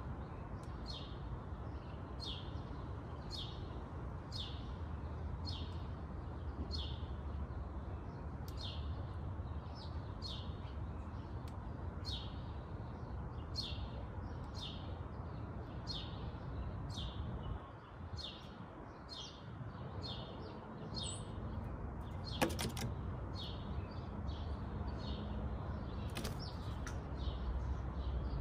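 A songbird chirping over and over, short high chirps that fall in pitch, about one a second, over a steady low background rumble. A single sharp knock about 22 seconds in.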